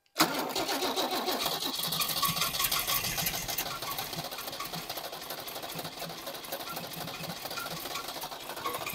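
1976 HX Holden ute's engine bursting into life a fraction of a second in and running on its replacement carburettor, loudest at first and then settling to a steady, fast-ticking idle.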